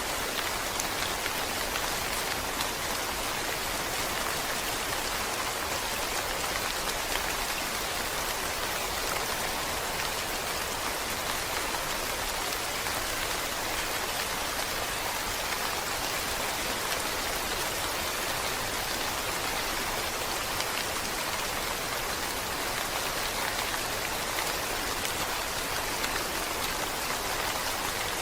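Steady rain falling, with dense patter of drops on a surface and a level hiss.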